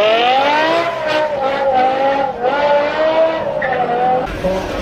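BMW M5 E60's S85 5.0-litre V10 engine under hard acceleration, its pitch climbing and then holding high with a few small dips. About four seconds in it cuts off abruptly and another run of the engine starts rising in pitch.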